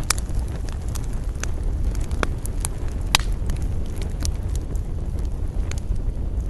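Wood campfire crackling, with sharp pops scattered irregularly over a steady low rumble of wind. The loudest pops come about two and three seconds in.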